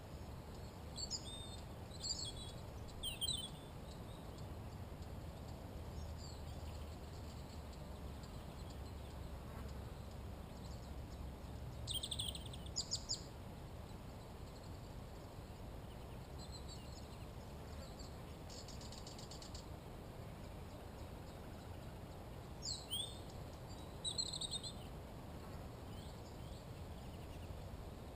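Wild birds calling now and then: short high chirps and quick sweeping notes in a few clusters, with a brief buzzy trill, over a steady low rumble.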